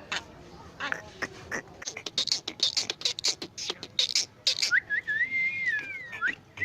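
Jungle myna making rapid clicks and harsh chattering calls, then a drawn-out wavering whistle about two-thirds of the way in.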